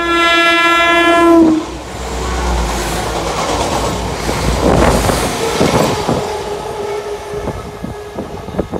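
A Class 172 Turbostar diesel multiple unit sounds its horn once, one steady note lasting about a second and a half. The train then runs past, its rumble and wheel clatter over the rails continuing to the end.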